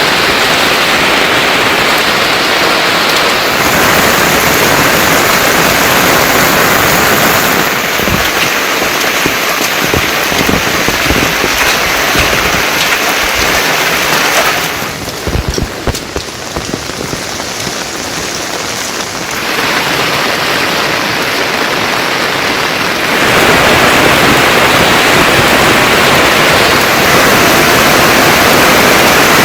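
Heavy rain falling in a dense, steady hiss, with a few sudden changes in loudness and a quieter spell around the middle.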